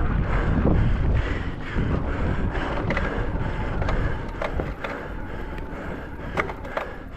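Mountain bike descending a rough trail at speed: tyres rolling over rough ground, wind buffeting the microphone, and the bike rattling with a scatter of sharp clicks and knocks. The wind rumble is heavy at first and eases off.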